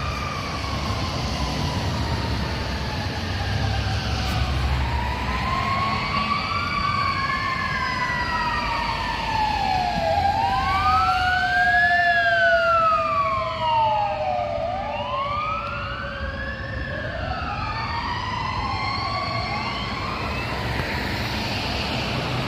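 Emergency vehicle sirens wailing, more than one overlapping, each rising and falling in pitch every few seconds, with a long slowly falling tone among them and a low vehicle rumble underneath.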